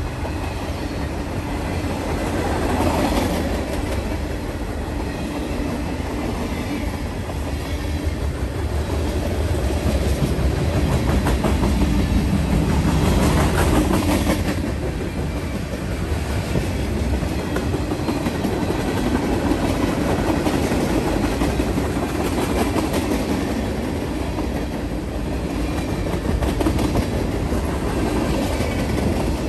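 Freight train of covered hoppers and tank cars rolling past close by: a steady rumble of steel wheels on rail with the clickety-clack of wheel sets over the rail joints, swelling louder about ten to fifteen seconds in.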